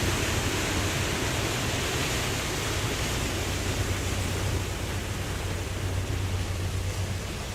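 Ocean waves washing in a steady rush of surf with a low rumble underneath, slowly easing off in strength.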